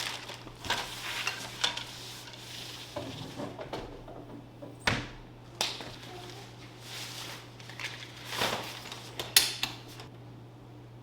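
Irregular clinks, clicks and knocks of hard parts being handled and fitted together while an assembly is finished off, the sharpest knock about nine seconds in, over a steady low hum.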